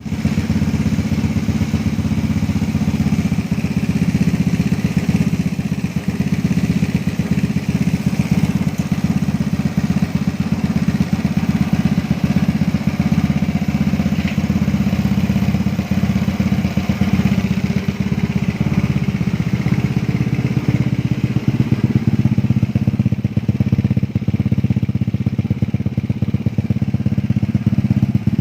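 Engine of a Fino scooter built up with a 220cc four-valve liquid-cooled engine, running steadily with a fast, even pulsing exhaust note.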